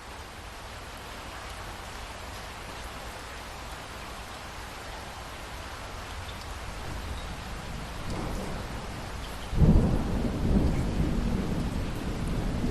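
Steady rain falling, with a low thunder rumble building about eight seconds in and breaking into a sudden loud clap of thunder near the end that rolls on.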